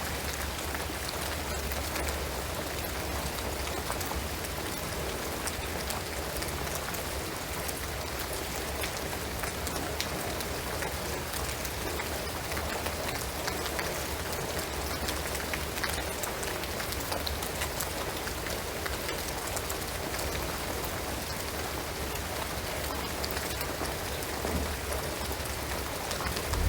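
Steady rain falling on a shingled roof and pine trees, an even hiss dotted with the ticks of single drops.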